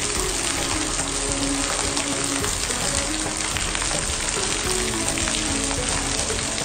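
Heavy tropical rain pouring down steadily: a dense, even hiss with scattered splashes of drops.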